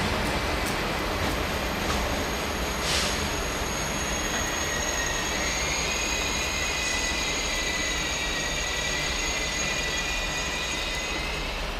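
Train rolling on the rails with a steady rush, a brief hiss about three seconds in, and a high, wavering wheel squeal that sets in about halfway through.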